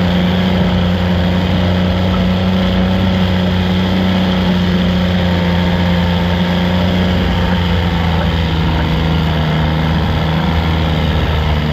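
Diesel garden tractor engine running loud and steady at constant speed, its pitch dipping slightly about ten seconds in.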